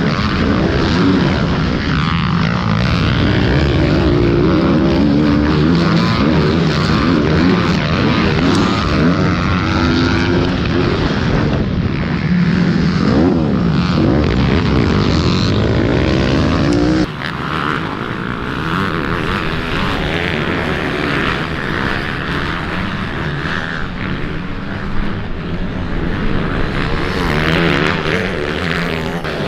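Several pit bike engines revving hard and shifting during a race, many engine notes rising and falling in pitch over one another. The sound changes abruptly about seventeen seconds in, where it drops a little in level.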